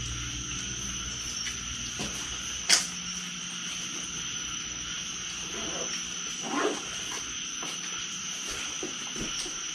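Steady night chorus of crickets and other insects, a constant high-pitched chirring. A single sharp click cuts in a little under three seconds in.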